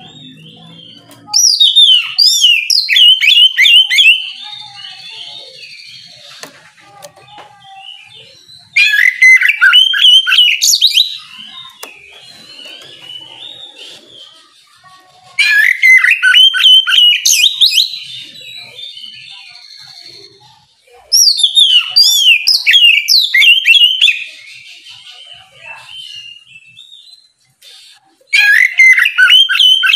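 Oriental magpie-robin (kacer) singing in the loud, open 'ngeplong' style used to provoke rival birds: five loud bursts of rapid, sweeping whistled notes, each a few seconds long and about six seconds apart, with softer twittering between them.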